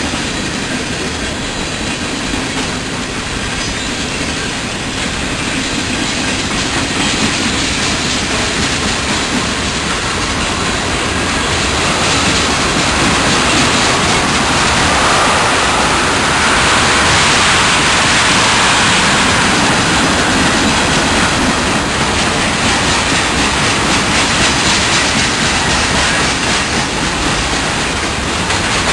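A railway train rolling by on the rails: a steady, dense running noise of wheels on track that grows louder around the middle and stays up.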